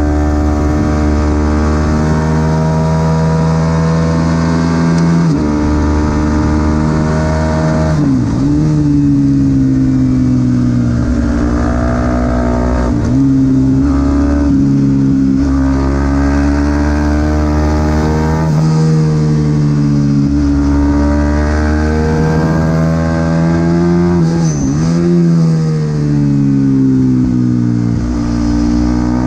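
Supersport 300 race motorcycle engine running hard at racing revs, its pitch stepping up and down through gear changes, with sharp drops about eight seconds in and again near the end.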